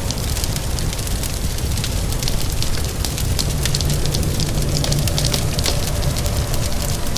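Wood fire in a fireplace crackling, with many quick, irregular pops over a steady low rumble, mixed with an even hiss of rain.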